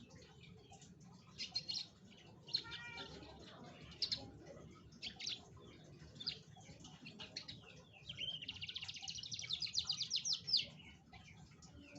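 Domestic canary singing: scattered high chirps and short phrases, then a fast rolling trill from about eight seconds in until nearly eleven seconds.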